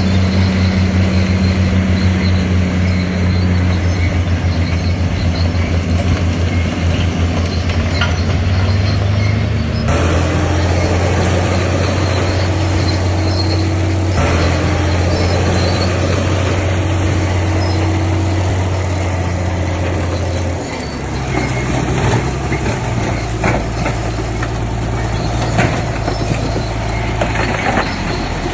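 Shantui DH7-C2 bulldozer's diesel engine working hard with a deep, steady drone. The engine note changes about ten seconds in and drops about twenty seconds in, after which metal clanks and squeals from the tracks come through.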